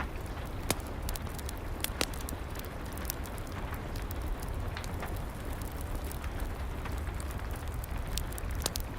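Wood fire crackling, with scattered sharp pops, over a steady bed of rain and a low rumble.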